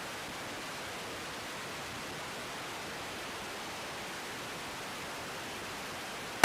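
Steady, even hiss of radio static from an air traffic control feed between transmissions.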